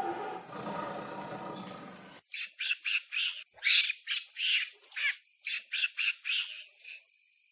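A quick series of about a dozen short, high bird chirps over a steady, high insect-like drone. This follows about two seconds of rushing noise.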